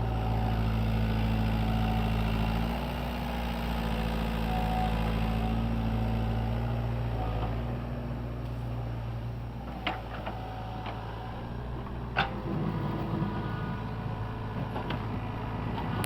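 SANY mini excavator's diesel engine running steadily, louder for the first half and settling lower after about nine seconds. Two sharp knocks sound, one near ten seconds and one near twelve.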